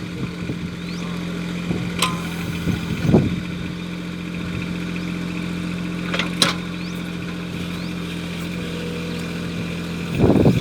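Mini tractor backhoe's engine running steadily at an even pitch, with a couple of sharp clicks and a few short thumps over it.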